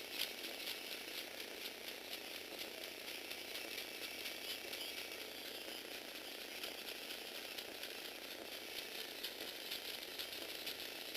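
Lego Technic walking-bug mechanism running: plastic gears and linkages clicking and rattling quickly and steadily, stepping up in loudness right at the start.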